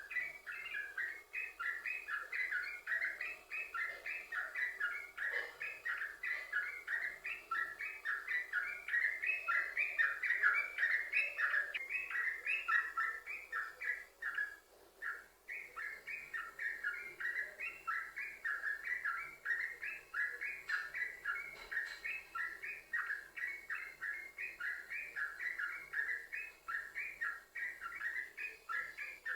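Yellow-vented bulbul (trucukan) singing in a long, unbroken run of quick, rapidly repeated notes, with a short break about halfway through.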